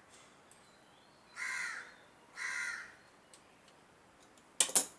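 A crow cawing twice, about a second apart. Near the end comes a single sharp, loud knock, louder than the caws.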